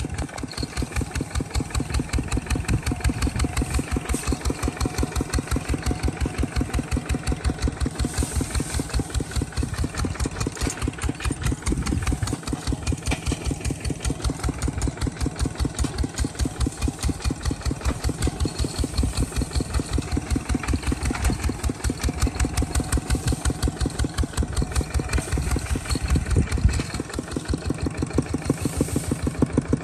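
An engine running steadily with an even, chugging beat of several low pulses a second.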